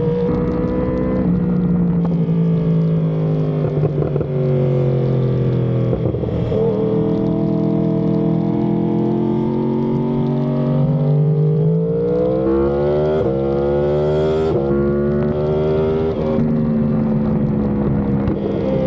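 Yamaha R1M's crossplane inline-four through an SC Project exhaust, running under way with its note sinking and rising as throttle and gears change, climbing steeply about twelve seconds in before dropping back.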